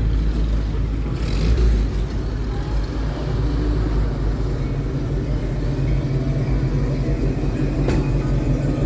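Engines of classic cars running as they drive slowly past, a steady low drone. There is a short burst of noise about a second and a half in and a sharp click near the end.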